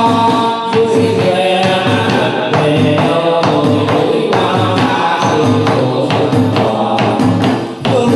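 Chầu văn ritual music for a hầu đồng ceremony: a singer's voice over instrumental accompaniment, with regular percussion strikes.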